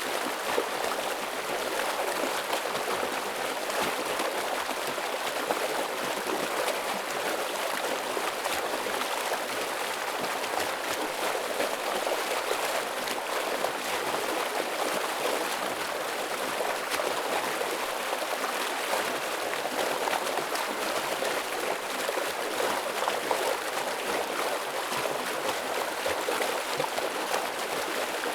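Heavy stream water flowing and splashing over rocks, a steady rushing without pause.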